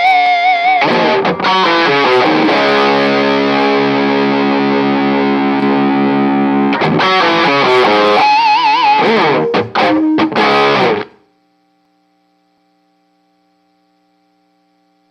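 Overdriven electric guitar played through a miniature tube power amp into a speaker cabinet. Lead notes with wide vibrato, then a chord held for about four seconds, then more lead phrases. It cuts off abruptly about eleven seconds in, leaving only a faint steady tone.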